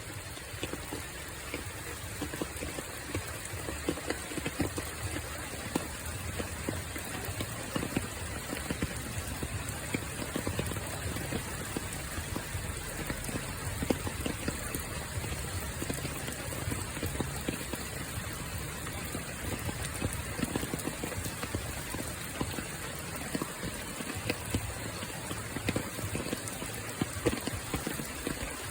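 Steady rainfall, with many irregular drops ticking sharply on a hard surface.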